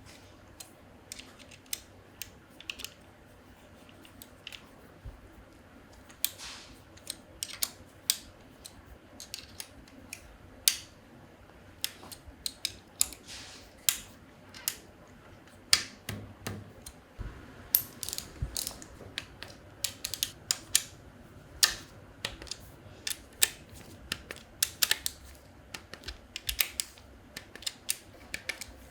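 Mechanic's hand tools and metal engine parts clicking and clinking irregularly during engine work, with short runs of quick clicks like a ratchet wrench.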